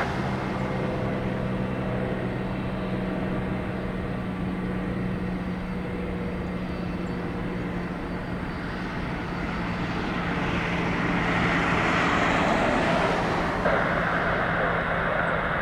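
Jet aircraft engine noise: a steady low hum under a broad rush that swells about ten seconds in and stays up.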